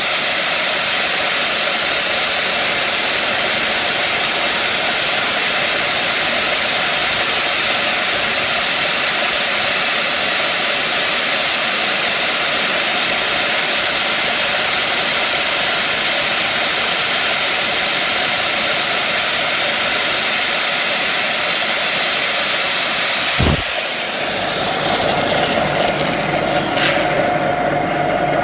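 Loud, steady rushing noise of workshop machinery, cut off abruptly with a thump about 23 seconds in. A lower running hum with a steady tone and a few clicks is left afterwards.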